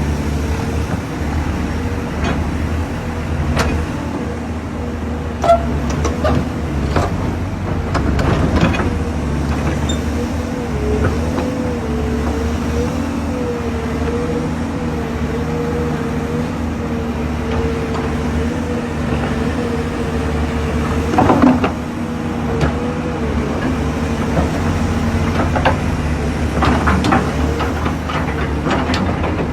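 Excavator diesel engine running steadily with a whine that wavers in pitch for a stretch in the middle, and scattered metal clanks, the loudest about 21 seconds in.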